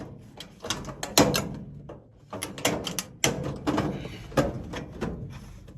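Sheet-metal duct takeoff being pushed and knocked into place in the duct opening: a series of sharp metallic knocks and thunks, the loudest about a second in.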